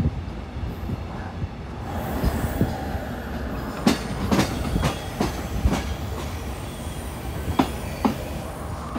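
Passenger train running, heard from on board: a steady rumble with sharp, irregularly spaced wheel clacks over the track, several of them from about four seconds in.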